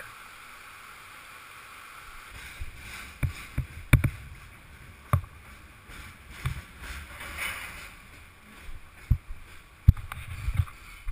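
Kayak on a fast, rain-swollen creek: a steady rush of water with several sharp knocks scattered through, the loudest about four seconds in and near the end.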